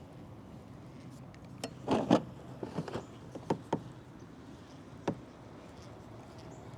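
Hollow knocks and thumps of gear being handled against a plastic fishing kayak. A close cluster comes about two seconds in, several lighter knocks follow over the next two seconds, and one last knock comes near the end.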